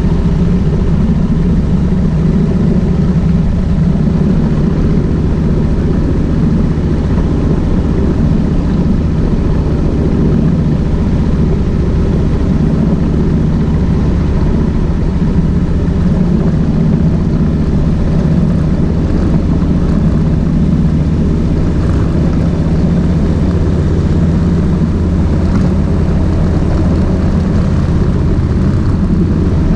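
Kawasaki VN1600 Mean Streak's V-twin engine running steadily under way, a low, even drone with no big revs or gear changes.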